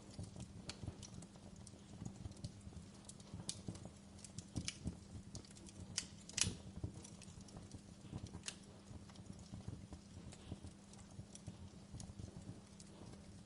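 Wood fire in a fireplace crackling, with irregular snaps and pops and the loudest pop a little after halfway, over a steady low hum.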